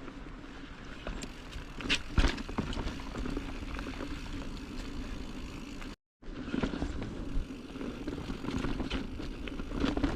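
Giant Trance mountain bike ridden over dirt singletrack: tyre rumble with the chain and frame rattling and knocking over bumps. The sound drops out completely for a moment about six seconds in.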